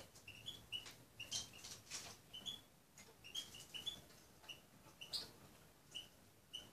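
A small finch feeding from a glass bowl: sharp pecks and crunching of food, mixed with short high ticks or chirps at an uneven pace, a couple a second, thinning out near the end.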